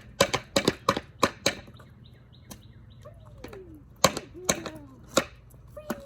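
A quick run of sharp knocks or taps, about three a second, for a second and a half, then a pause and four more single knocks. Three short whine-like tones, each falling in pitch, sound among the later knocks.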